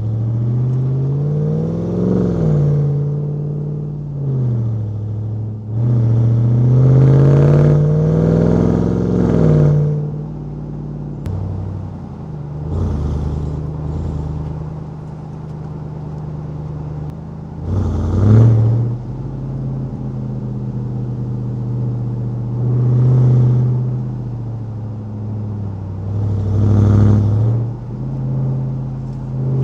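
Supercharged 6.2-litre HEMI V8 of a Ram 1500 TRX pickup under throttle, repeatedly pulling up in pitch and dropping back as it accelerates and eases off. There is one longer climb early on and several shorter surges later.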